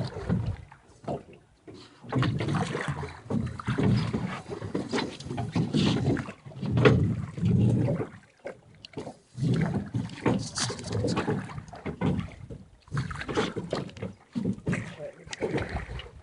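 River water rushing and splashing around a small boat, in irregular surges with short lulls between them.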